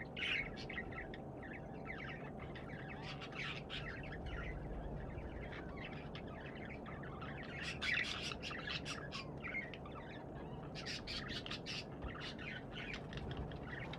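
Pet budgerigars chirping and chattering in quick runs of short calls, busiest about eight seconds in and again near the end.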